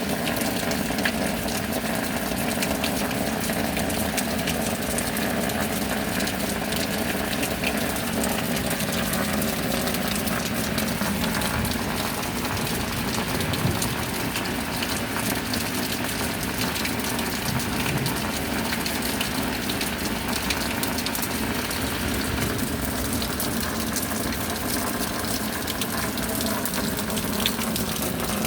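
Steady tropical rain falling as an even rush with no breaks.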